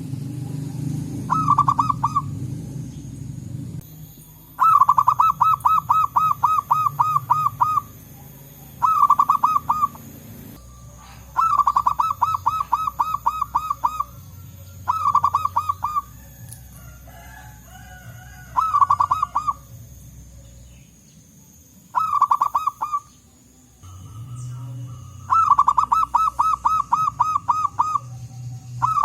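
Zebra doves (perkutut) cooing: about nine bouts of quick, evenly spaced notes, roughly four a second, each bout lasting one to three seconds, over a low rumble.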